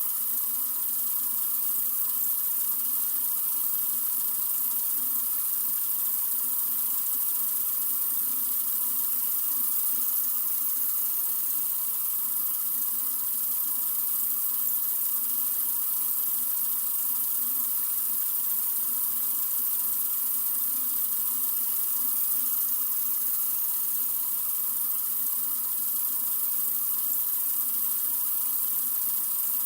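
Sink faucet running in a steady stream of water: an even, unbroken hiss, strongest in the highs.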